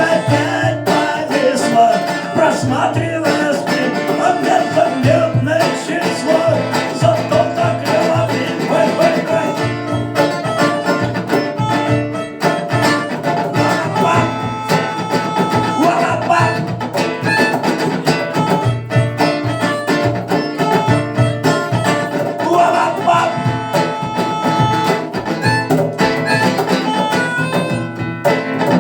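Live rock band playing an instrumental passage: plucked guitar over a pulsing bass line and percussion.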